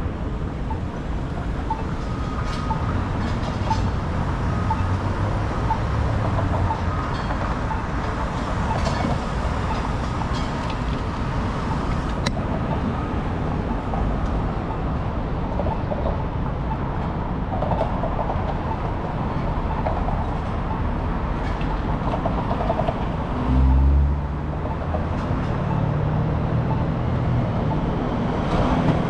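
Steady city street traffic noise, with a short loud low rumble about 24 seconds in, after which low steady tones from a rail vehicle set in.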